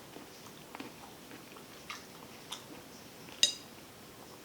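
Close-up eating of a shrimp and snow crab seafood boil: chewing with small scattered clicks, and one sharp loud click or crack about three and a half seconds in.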